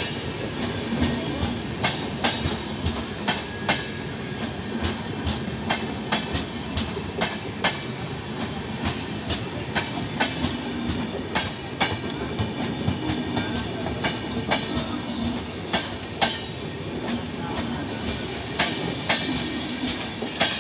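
An express train's passenger coaches roll past, wheels clicking sharply over the rail joints about once or twice a second above a steady rumble.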